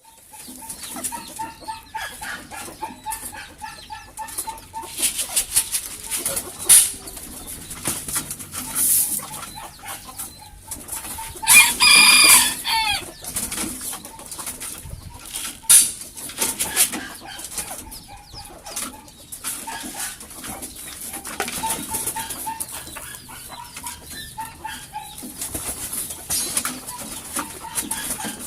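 Bantam chickens clucking and calling, with many short taps and clicks throughout. One loud, harsh call stands out about twelve seconds in.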